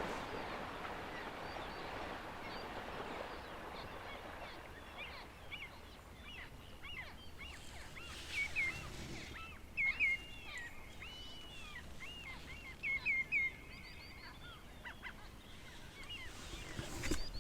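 Birds calling in a string of short high chirps and whistles over a steady outdoor hiss. The calls begin a few seconds in and grow busier toward the middle.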